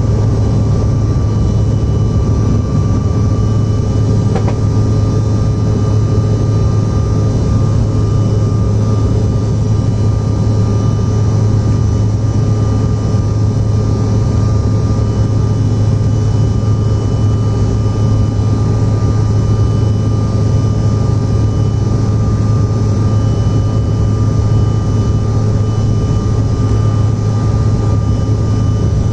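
Steady cabin noise of a CRJ-900 airliner's jet engines running at constant thrust, heard inside the cabin: a deep, even hum with faint steady high whines over it. A faint click about four seconds in.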